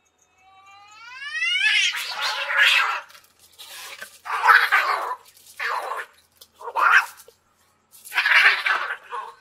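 An animal's rising cry, followed by five short hissing snarls about a second apart.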